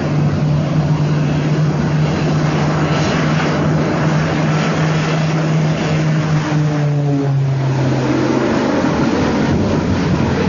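A loud, steady engine drone mixed with rushing noise; its hum drops slightly in pitch about seven seconds in.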